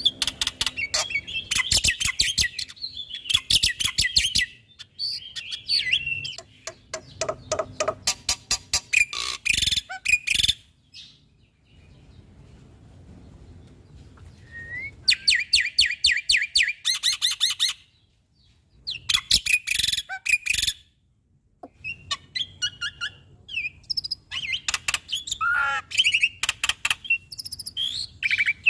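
Black-winged myna (jalak putih) singing a loud, varied song: fast runs of dry chattering notes mixed with harsh calls and short whistles, broken by a few brief pauses.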